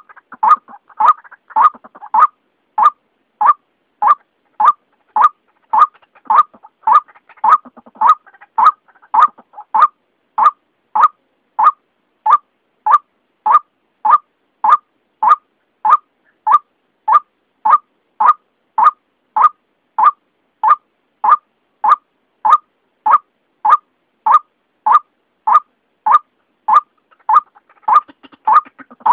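White-breasted waterhen calling: one short, sharp note repeated evenly, a little under twice a second. A recorded lure call used to draw waterhens in for hunting.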